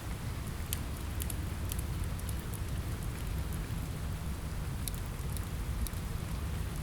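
Steady rain with a deep low rumble, mixed with the scattered sharp pops of a crackling wood fire.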